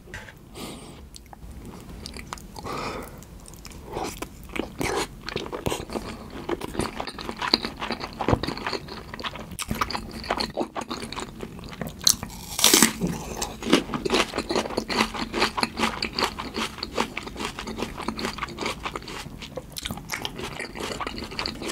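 Close-miked crunchy bites into a whole raw onion and wet chewing of it together with salmon sushi in tartar sauce, with the loudest crunches about halfway through.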